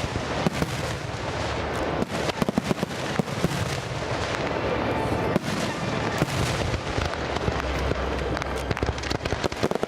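Fireworks display: a dense, continuous crackling and popping of many sharp reports, with one sharper bang about halfway through.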